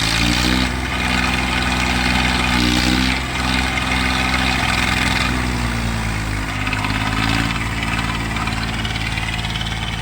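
Tractor diesel engine running hard under load in a tractor tug-of-war pull. Its note rises at the start and sags briefly twice, a little after three seconds and again about six to seven seconds in.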